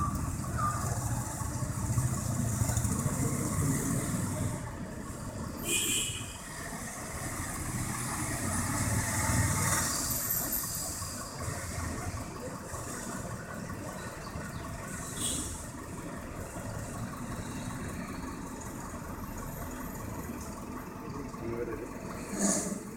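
Heavy truck engine idling with a low rumble, with three short hisses of released air from its air brakes.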